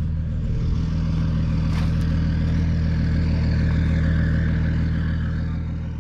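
Vehicle engine running steadily at an even speed, with a short click about two seconds in.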